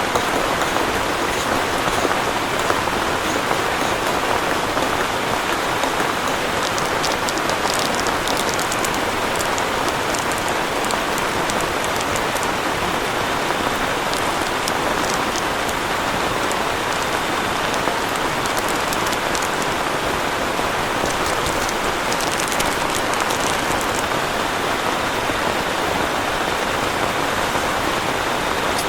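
Heavy rain falling steadily and densely, with a scattering of sharper drop hits at times.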